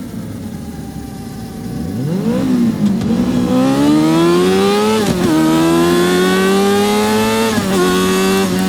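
Yamaha R6's 600cc inline-four racing engine at full throttle. It runs low and quieter at first, then climbs in pitch through the revs, with sharp drops at upshifts about five seconds in and again near the end.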